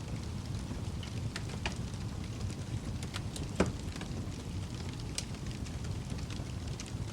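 Fireplace fire burning with a steady low rumble and scattered sharp crackles and pops, one louder pop about three and a half seconds in.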